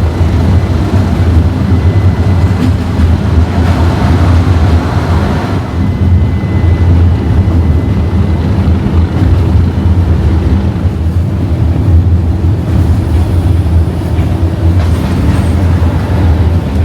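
English Electric 12CSVT V12 diesel engine of Class 37 locomotive D6700 running steadily with a heavy low rumble, mixed with the train's running noise.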